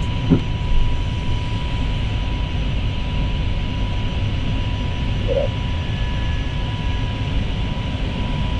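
Steady cockpit noise of an Airbus A320neo in its initial climb just after takeoff: engine and airflow noise, strongest low down, with a thin steady high tone.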